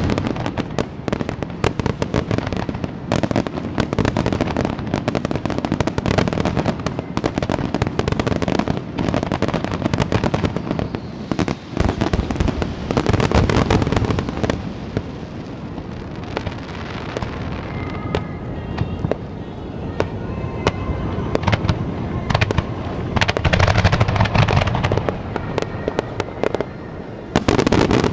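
Aerial fireworks display: shells bursting one after another in a dense barrage of booms and crackling, easing off a little past the middle and building up again near the end.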